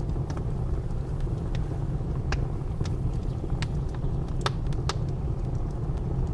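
Wood fire crackling in a fireplace, with sharp irregular pops every half second or so, over the steady low rumble of blizzard wind.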